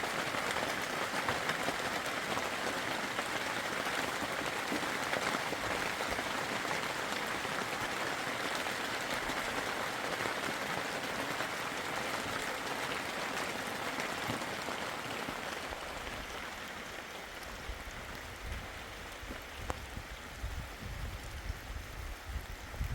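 Heavy rain falling steadily, a dense even hiss that eases off in the last third, with low rumbling buffets near the end.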